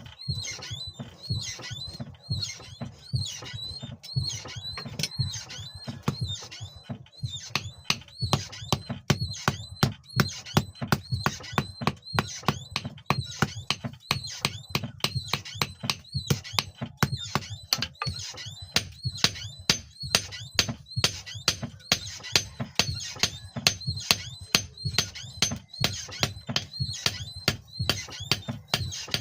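Hand hammer striking steel on an anvil in a steady run of ringing metal blows, about two to three a second, as the old hex nut is forged into a knife blade.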